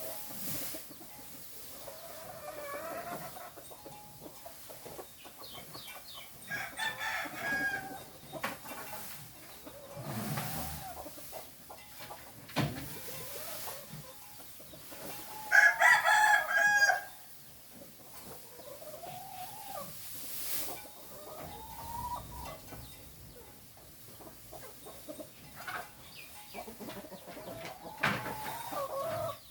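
Chickens calling and clucking, with a rooster crowing; the loudest crow comes about halfway through.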